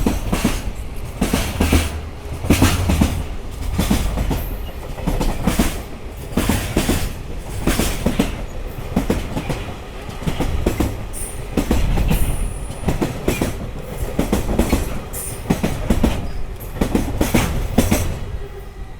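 Train wheels pounding over rail joints in a long run of loud, sharp clacks, often in close pairs as each bogie's axles cross a joint, with brief high wheel squeals about halfway through.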